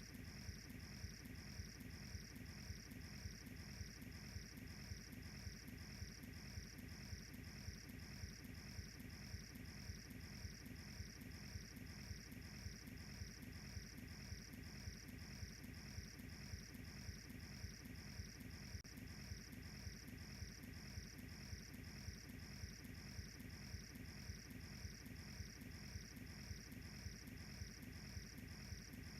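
Crickets chirping in an even pulsing rhythm, about two chirps a second, over the low steady rush of a wood fire.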